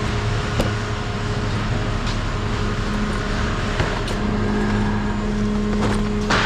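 Vehicle engine idling steadily, with a few sharp metal clanks; the loudest clank comes near the end.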